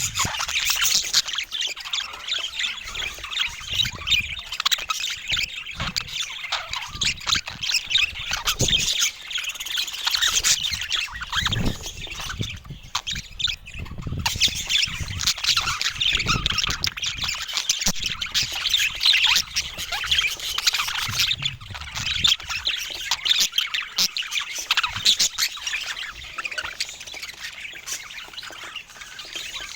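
Several budgies chirping and chattering together, a continuous jumble of short warbling calls and squawks.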